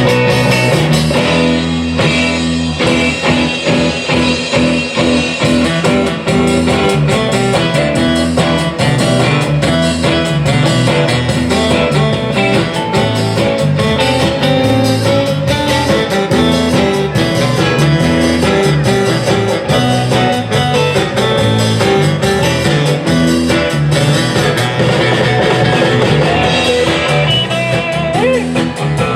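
Live rock-and-roll band playing, with guitar to the fore over bass and drums.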